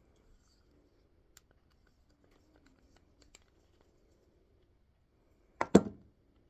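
Scattered faint clicks and light scrapes of small parts and tools being handled, then a sharp double knock of a hard object about five and a half seconds in, the loudest sound.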